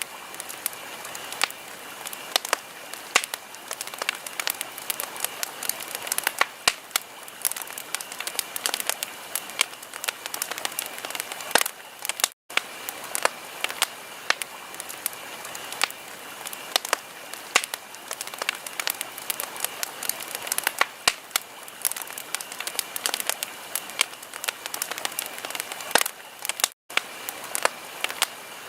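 Wood fire crackling: a steady hiss with frequent irregular pops and snaps. The sound drops out for a moment twice, about twelve seconds in and near the end.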